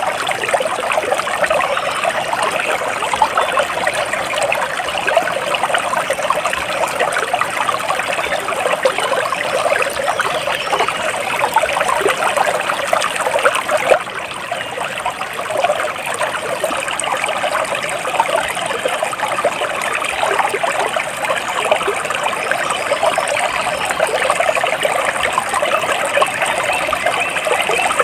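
Flowing water trickling steadily, with a brief softer dip about halfway through.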